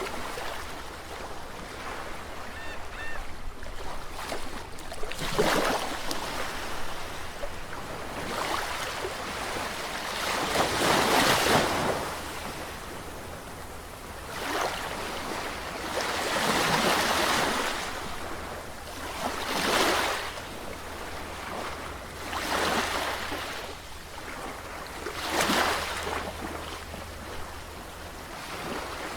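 Sea surf: waves surging and falling back in repeated rushes every few seconds, about six in all, the loudest near the middle.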